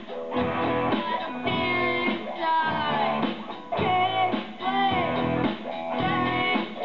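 Rock band playing live, with electric guitar chords and bending lead guitar lines.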